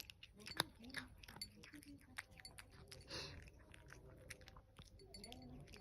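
A cat chewing and crunching its food: a run of small, sharp crunches with a brief hiss just after the middle.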